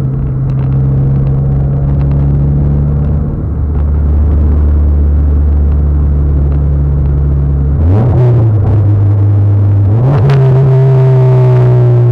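Mitsubishi Lancer Evolution's turbocharged four-cylinder engine droning steadily as heard inside the cabin while cruising. The engine note bends in pitch twice, about eight and ten seconds in, as the driver works the throttle.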